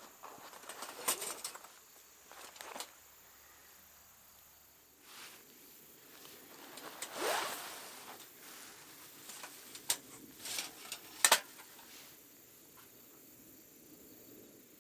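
Scattered sharp clicks and knocks with some rustling, and a rising swish about seven seconds in, over a faint steady high chirring of autumn insects.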